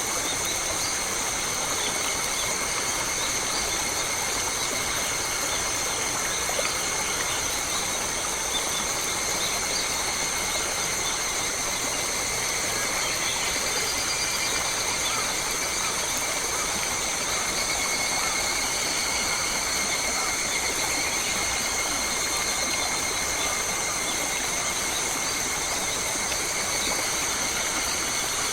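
Forest ambience: a steady, high-pitched insect drone in several bands over an even background hiss.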